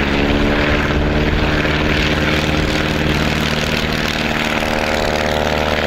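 Piper Super Cub's piston engine and propeller running steadily, a continuous even drone.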